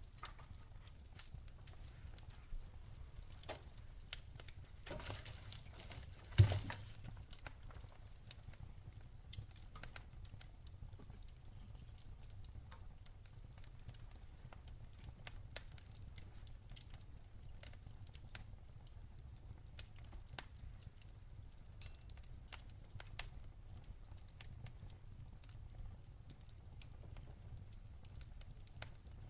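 Campfire crackling: scattered sharp snaps and pops over a low steady rumble, with one louder pop about six seconds in.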